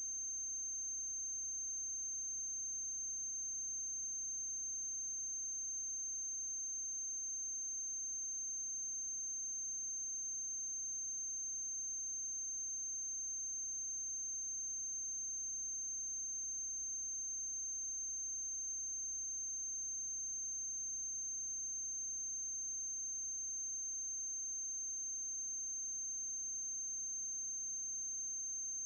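A steady, very high-pitched electronic whine held on one unchanging note, over a faint low electrical hum and hiss: noise on the soundtrack of a silent film transfer, with no other sound.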